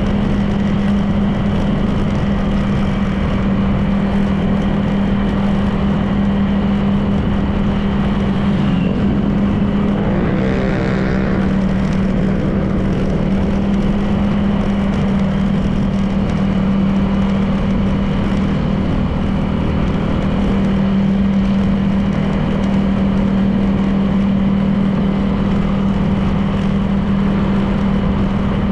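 Honda PCX 160 scooter's single-cylinder four-stroke engine running at a steady cruise with its CVT, heard from the rider's seat with a constant engine hum and road noise. About ten seconds in, a short sound with pitch that bends up and down passes, briefly over the engine.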